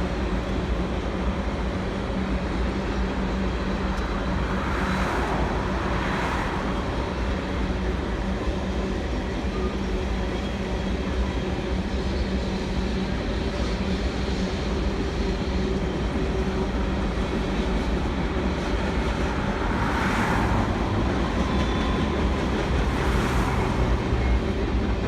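A train rolling by: a steady rumble with a low hum, and a few brief soft swells along the way.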